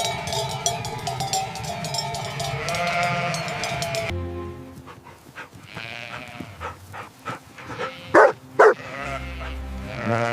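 Livestock bells clanking and ringing for about four seconds. Then sheep bleat, with two loud bleats in quick succession about eight seconds in.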